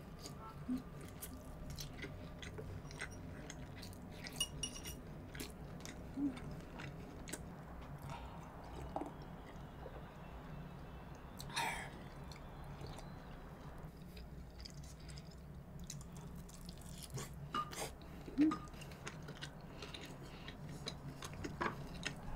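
Quiet close-miked chewing and soft mouth sounds of someone eating sushi, with scattered light clicks of chopsticks and dishes. About halfway through there is a louder, brief sound as she drinks from a glass.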